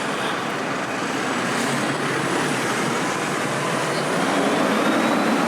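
Steady city-street traffic noise from passing road vehicles, growing a little louder about four seconds in.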